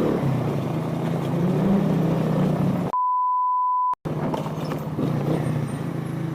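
Motorcycle engine running with a steady hum, its pitch rising slightly a couple of seconds in. About three seconds in, a one-second censor bleep at a single steady pitch replaces all other sound.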